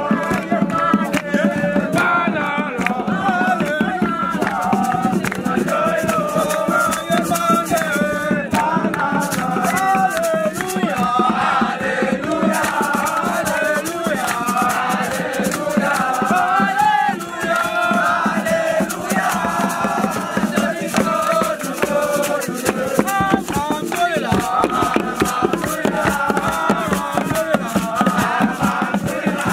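A group of voices singing a chant together, with rattles shaken along to it.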